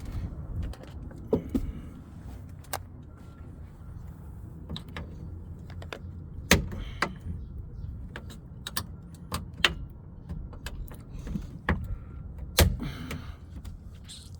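Scattered sharp clicks and knocks of hands and tools working at a pickup truck's door speaker and its mounting, the loudest about six and a half seconds in and near the end.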